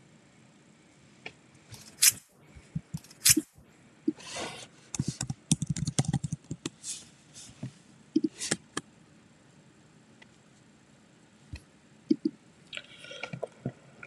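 Irregular clicks and taps of a computer keyboard and mouse, with a denser run of clicks from about four to seven seconds in.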